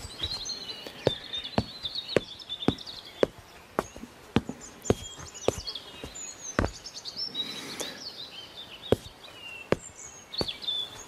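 Birds chirping in the background, with a string of sharp clicks or taps at irregular intervals of about half a second.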